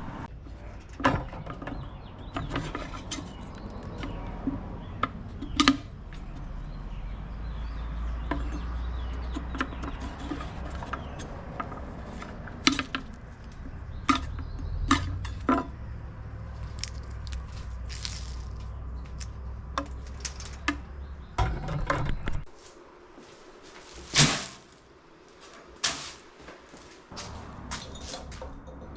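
Scattered knocks and clinks of hard objects being handled, over a low steady hum that drops out for a few seconds near the end.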